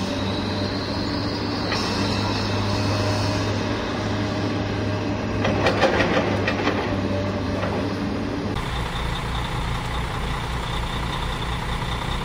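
Heavy truck engine running steadily, with a short clatter of knocks about six seconds in. About two-thirds of the way through it switches suddenly to a lower, evenly pulsing engine rumble.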